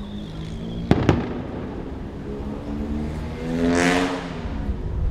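Two sharp firework bursts cracking in quick succession about a second in. Around four seconds in, a whoosh passes close by, swelling and fading. Low wind rumble sits on the microphone throughout, recorded without a low-cut filter.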